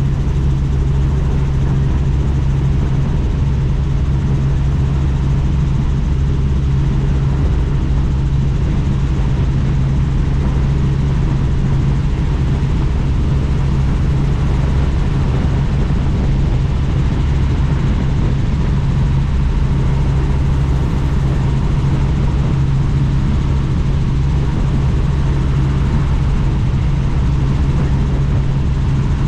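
Helicopter in flight, heard from the open-door cabin: a loud, steady low drone of the rotor and engine with a constant rush of air, unchanging throughout.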